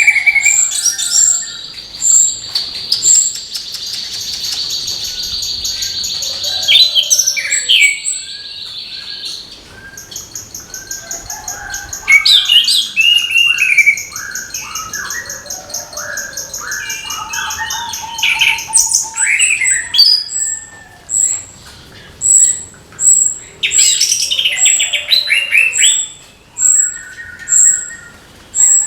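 Orange-headed thrush singing a varied song of short rich phrases, with long even high trills and a short very high note repeated about once a second.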